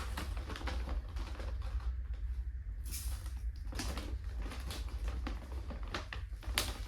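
Dry rice grains being poured from a bag into a pot, a run of quick small patters and clicks with sharper clicks about three seconds in and near the end, over a steady low rumble.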